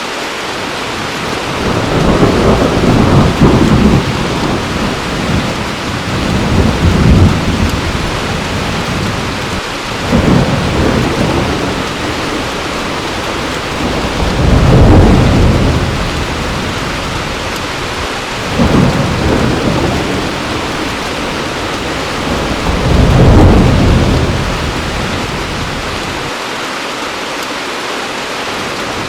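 Heavy rain falling steadily, with about six rolls of thunder rumbling up and fading every few seconds.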